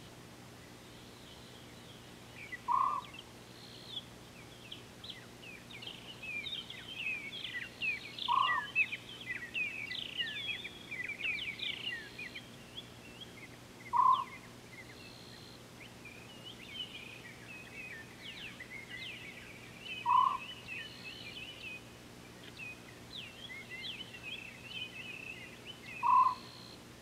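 Wild birds chirping and trilling in a busy chorus, with a louder, lower single call repeating five times, about every six seconds.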